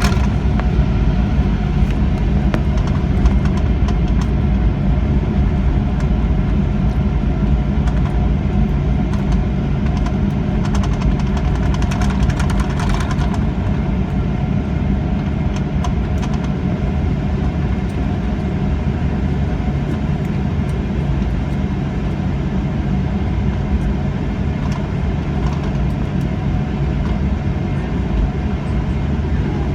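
Steady rumble of a Boeing 737-800's CFM56-7B engines and airflow heard inside the passenger cabin, with a low steady hum and a few light clicks.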